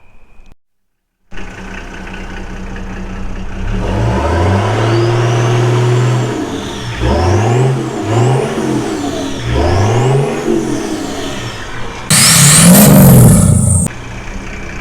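After a brief silence, a vehicle engine is revved: one long climb in pitch, then three quick rev-ups and drops, with a thin whine rising and falling above it. Near the end a louder, harsher burst of engine noise lasts about two seconds.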